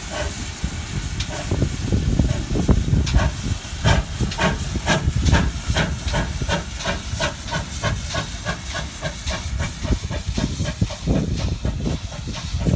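Steam locomotive pulling away: exhaust chuffs that quicken from about two a second to about four a second, over hissing steam and a low rumble.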